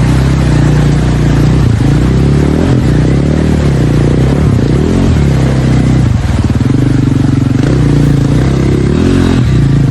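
Dirt bike engine running hard, its revs rising and falling over and over as the bike is ridden.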